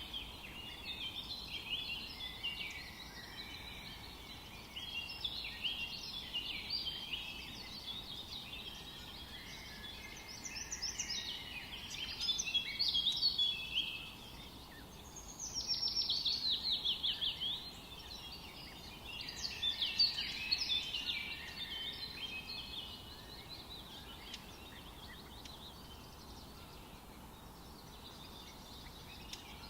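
Several birds singing in a forest chorus, many overlapping chirps and warbles, with a fast run of repeated down-slurred notes about halfway through. A faint steady hiss lies underneath.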